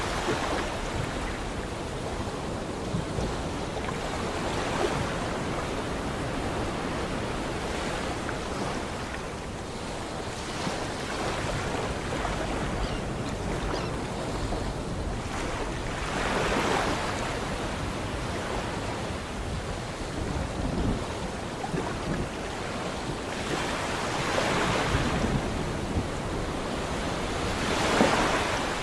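Sea surf washing in continuously, with waves swelling louder and falling away every several seconds.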